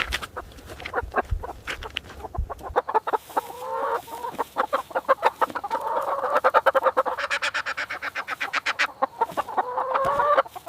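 Chickens clucking in rapid runs of short calls, joined about three seconds in by a drawn-out, slowly rising call.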